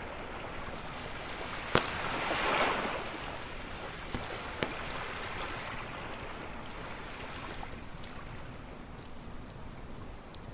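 Ocean waves washing onto a beach, one swelling and breaking about two seconds in, over a crackling wood campfire. Sharp pops come about two seconds and four and a half seconds in, with small crackles throughout.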